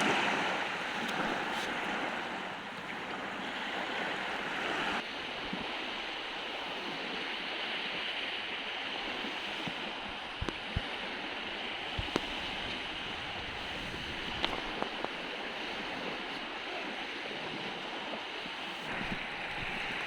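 Surf washing onto the beach with strong wind on the microphone: a steady rushing noise, broken by a few faint knocks.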